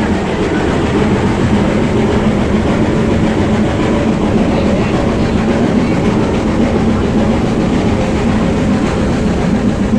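Passenger railway carriage running through a tunnel, heard from inside: a loud, steady rumble of wheels on the rails with a constant low hum.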